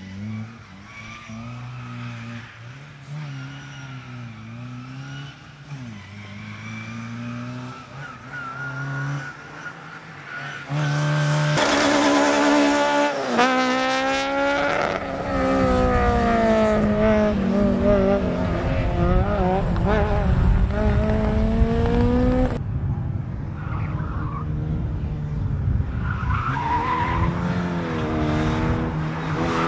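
Competition car engines driven hard in a slalom: revs climbing and dropping back again and again through gear changes and lifts, with tyre squeal. The engine is distant and fainter at first, then much louder and closer from about eleven seconds in.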